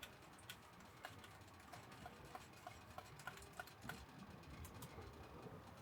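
Near quiet with a few faint clicks and, in the middle, a run of short, evenly spaced ticks, about three a second.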